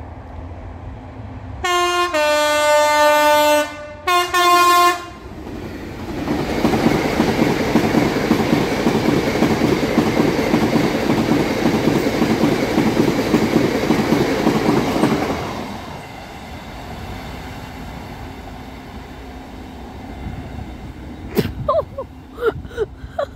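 A GB Railfreight Class 66 diesel locomotive sounds its horn in loud blasts about two seconds in, over roughly three seconds. Then its train of box wagons rumbles and clatters past on the rails for about ten seconds before fading.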